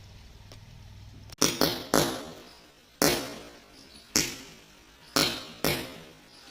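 A matchstick-and-firecracker chain reaction igniting. After a low hum comes a string of about seven sudden flaring bursts, roughly one a second and unevenly spaced. Each is a sharp pop trailing off in a fading hiss.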